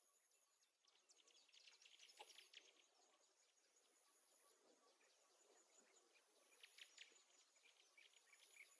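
Near silence with faint, scattered high chirps, a soft background of bird calls.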